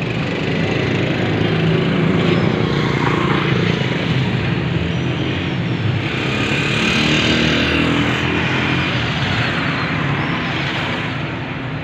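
Motor vehicle engines running steadily, with the noise swelling twice, around two seconds in and again around seven seconds in.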